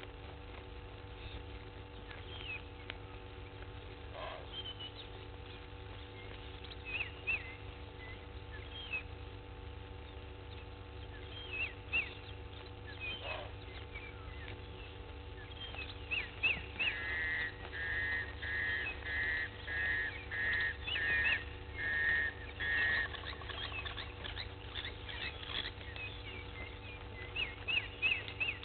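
Wild birds calling in the bush: scattered short, high chirps, and about halfway through a run of about nine evenly spaced whistled notes. A steady low hum lies underneath.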